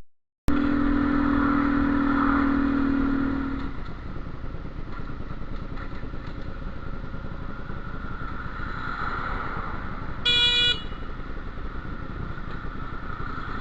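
A vehicle horn held for about three and a half seconds, then a motorcycle running in traffic, with a short, higher horn beep about ten seconds in.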